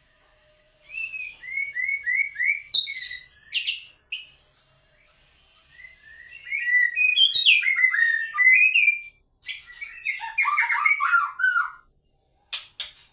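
White-rumped shama (murai batu) singing a full, varied song: a run of quick rising whistled notes, a few thin high notes, then rapid tumbling phrases, broken by short pauses.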